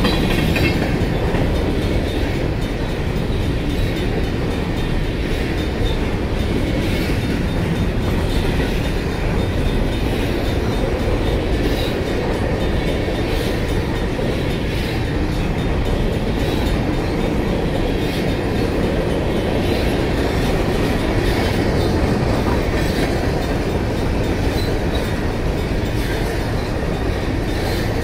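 Freight train of covered hopper cars rolling past at a grade crossing: a steady rumble of wheels on rail with wheels clicking over rail joints. A crossing's mechanical warning bell keeps ringing over it.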